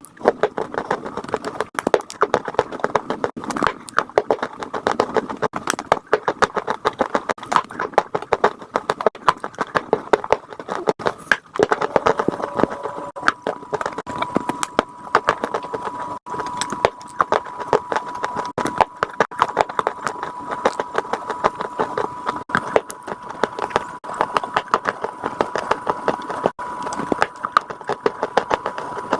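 Chalk being bitten and chewed close to the microphone: rapid, irregular crunching and crackling throughout. A thin steady whine joins in about halfway through.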